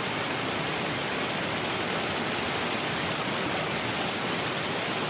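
Stream water rushing steadily, an even unbroken wash of flowing water.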